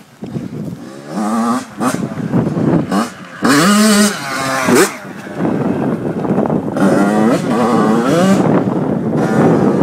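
Yamaha YZ85 two-stroke single-cylinder dirt bike engine revving hard, its pitch rising and falling again and again as the throttle opens and closes. It is loudest about four seconds in.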